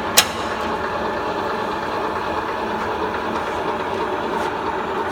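Steelmaster SM-SLC-20 snap lock former running with sheet metal passing through its Pittsburgh-profile rolls: a steady mechanical running noise, with one sharp click just after the start.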